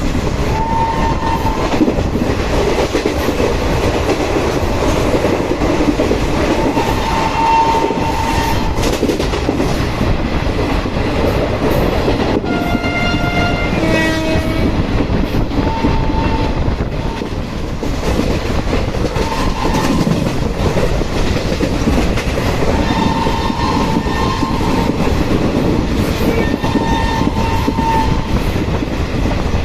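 Passenger express train running at speed, with the steady rumble and clatter of the coaches on the track. Short high tones come every few seconds, and a horn sounds about halfway through, stepping down to a lower note.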